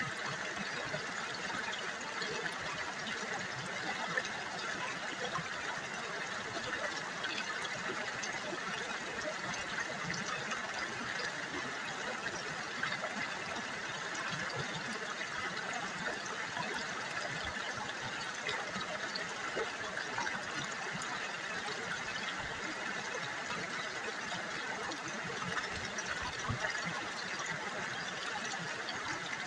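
River water babbling and trickling over stones in a steady, even stream.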